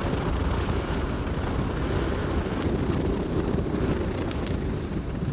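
Steady low rumble of a moving road vehicle, with road and wind noise.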